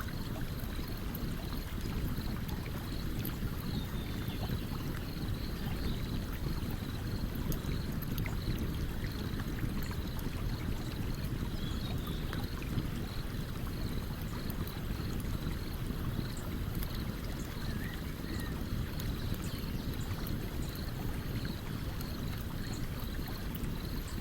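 Stream running with a steady low rush, over which a campfire gives faint scattered crackles. A faint high chirp repeats at an even pace in the background.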